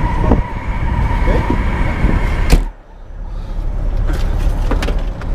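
A semi-truck cab door slams shut about two and a half seconds in, suddenly cutting off the loud storm-wind noise that came in through the open door; a low rumble is left after it.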